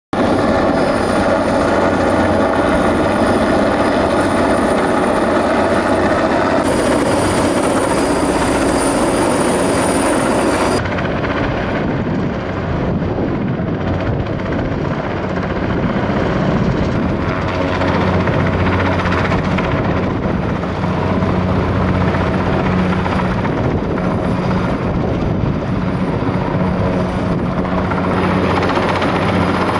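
Helicopter rotor and engine running steadily while it lifts heavy construction parts into place, with abrupt changes in the sound about 7 and 11 seconds in.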